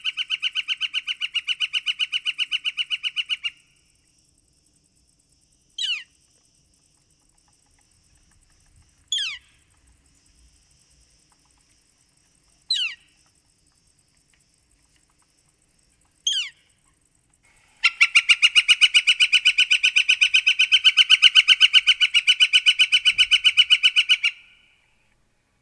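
Northern flicker calling: a long, rapid run of even 'wick-wick-wick' notes that stops about three and a half seconds in. Four single, sharp 'kleer' calls follow, each sliding down in pitch, a few seconds apart. Then comes another rapid run of notes lasting about six seconds.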